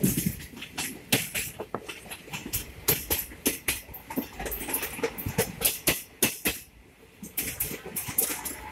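Wheels of a moving Indian Railways passenger express clattering over rail joints and points, heard from aboard. The knocks are many and irregular over a steady rumble, with a brief quieter patch about seven seconds in.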